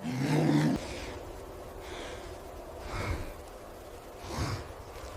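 A low grunt that stops less than a second in, followed by three short breathy puffs about a second apart, like a creature breathing hard through its nose.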